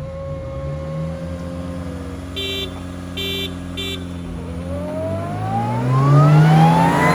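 Cars idling at the start line, three short beeps around the middle, then engines revving and accelerating hard from a launch, pitch climbing steeply and growing loud toward the end: the Honda Civic and Audi S4 pulling away in a race.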